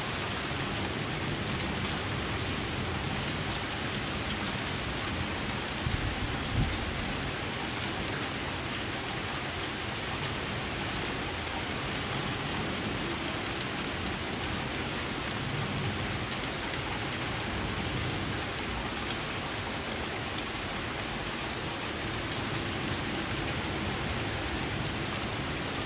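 Steady rain falling, a dense, even hiss, with a brief low thump about six seconds in.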